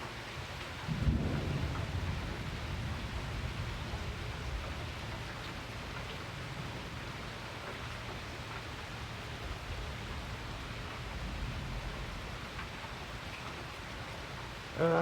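Steady rain falling, with a low rumble of thunder breaking in about a second in and slowly fading away over several seconds.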